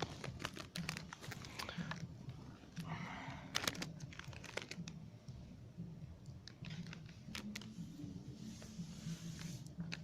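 A plastic packet of instant mashed potato being torn open and crinkled, with scattered sharp clicks and rustling.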